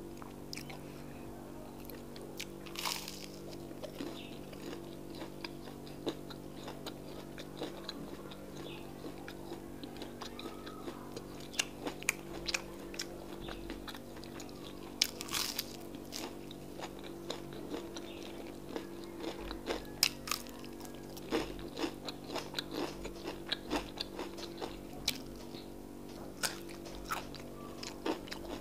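Close-miked biting and chewing of akara, deep-fried bean fritters, with irregular crunches and mouth clicks, a few louder bites standing out. A steady low hum runs underneath.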